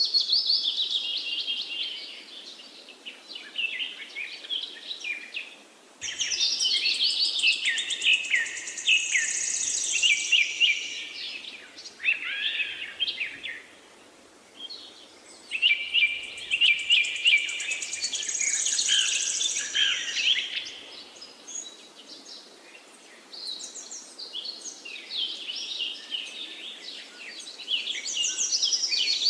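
Songbirds singing and chirping, many quick overlapping calls and trills coming in bursts of a few seconds with quieter lulls between.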